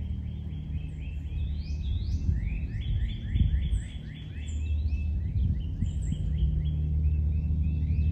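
Many small birds chirping together in quick, overlapping rising calls, over a steady low rumble.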